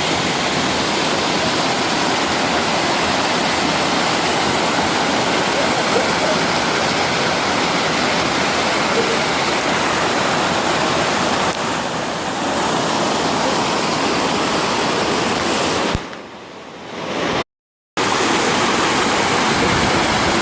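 Double waterfall on a mountain stream: a loud, steady rush of falling water. About sixteen seconds in it drops sharply quieter, cuts out for a moment, then returns at full strength.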